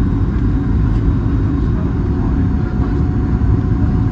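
Steady low rumble inside the passenger cabin of a Boeing 737 MAX 8-200 with CFM LEAP-1B engines, during its landing.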